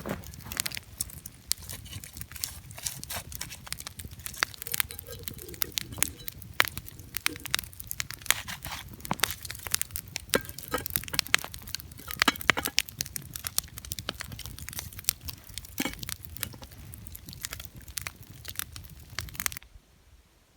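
Wood campfire crackling, with a dense, irregular run of sharp pops and snaps over a low rumble; it cuts off suddenly near the end.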